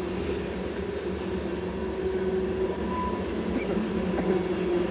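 Freight train cars rolling past at steady speed, a continuous rumble with a low steady hum running under it.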